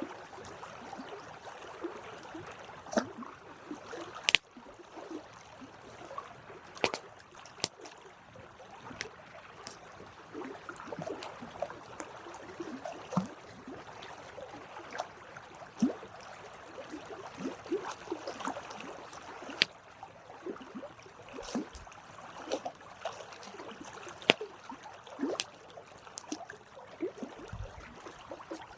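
Wood fire burning, crackling with irregular sharp pops over a soft hiss, a few pops much louder than the rest.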